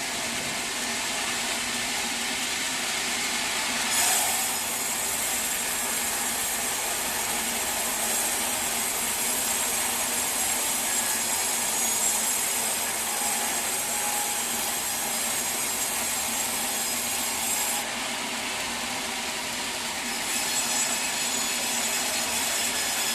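Sawmill saw cutting through a teak log. The machine runs steadily, and a high, hissing cutting sound comes in about four seconds in as the blade enters the wood. It drops out for about two seconds late on and then resumes.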